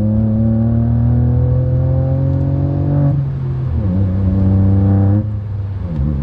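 Ford Fiesta 1.0 EcoBoost three-cylinder engine accelerating hard through a Cobra cat-back performance exhaust. The pitch rises, drops at an upshift about three seconds in, rises again and drops at a second upshift about five seconds in.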